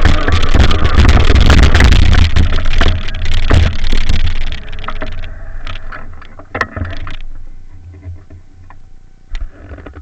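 Heavy wind rumble on the microphone with rattling and sharp knocks while riding a bike, loud for about four seconds, then dying away to scattered clicks.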